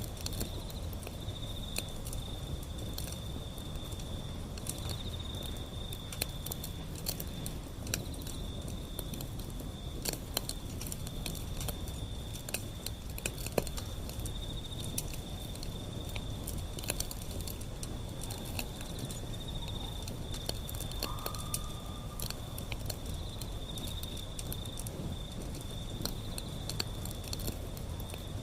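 Wood fire burning, with frequent irregular crackles and pops over a low rumble, and a steady high insect trill throughout. A short whistle-like tone comes in about 21 seconds in.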